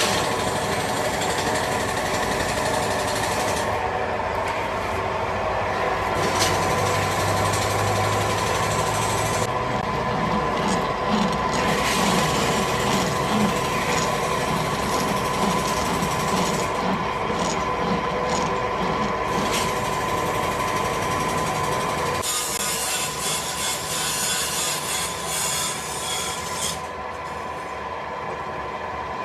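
Gear-factory metalworking machinery running continuously, with a steady whine and a rasping, rubbing noise; the whine stops and the noise changes about 22 seconds in.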